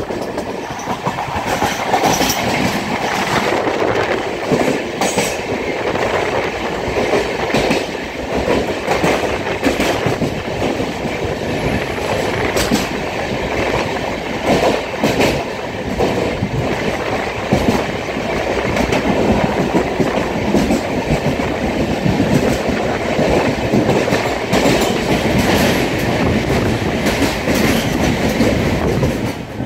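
Passenger train running through a tunnel, heard from an open coach door: a loud, steady rumble of wheels on rails with irregular clicks over the rail joints.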